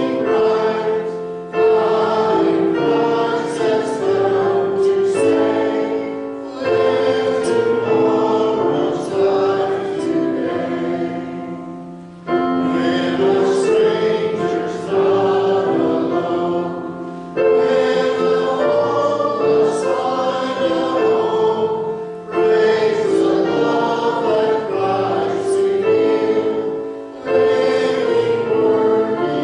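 Congregation singing a hymn in unison with accompaniment, in phrases of a few seconds with brief breaks between lines.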